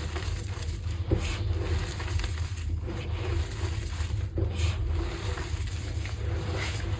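Block of green-dyed gym chalk being crushed, with scattered crumbly crackles, one sharp crack about a second in, over a steady low hum.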